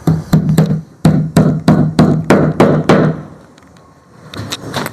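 Hammer blows on wood, about ten steady strikes at roughly three a second, then a pause and a few weaker knocks near the end: hammering during the nailing of the boat's wooden frames.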